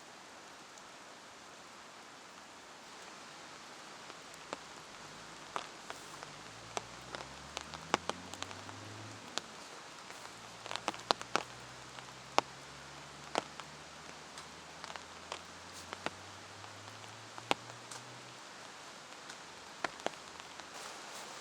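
Steady rain falling, with scattered sharp taps of heavy drops striking a surface. A faint low hum rises in pitch a few seconds in, then holds steady and fades out near the end.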